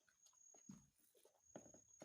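Faint eating sounds: wet chewing and mouth smacks with small irregular clicks, from someone eating chicken curry and rice close to the microphone.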